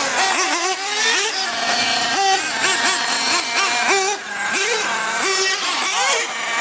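Several radio-controlled monster trucks and truggies racing, their small motors revving up and down over and over in quick throttle bursts.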